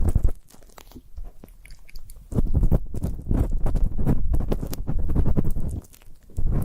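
Ear-cleaning ASMR: an ear pick scratching and rubbing close against the microphone, crackly with a muffled low rumble. It is quieter for the first two seconds, then becomes a dense run of scratches.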